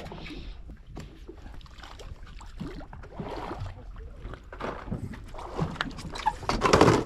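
Small fishing boat at sea: wind and water noise with scattered knocks on deck, and a louder burst just before the end.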